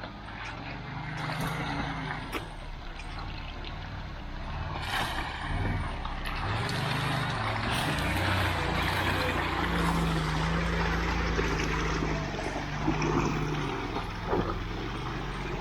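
Off-road vehicle engine running and revving, its pitch rising and falling, over a steady rushing noise.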